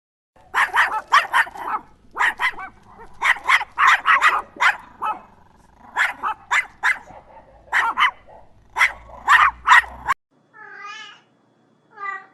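A dog barking over and over in quick runs of three or four barks, cut off suddenly about ten seconds in. A few short, wavering cat meows follow near the end.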